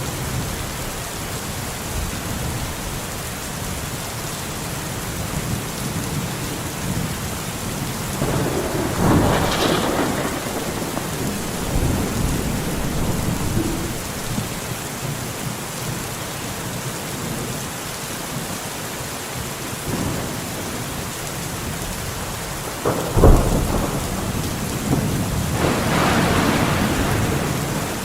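Steady rain with thunder rolling twice, the second roll opening with a sharp crack about two-thirds of the way through.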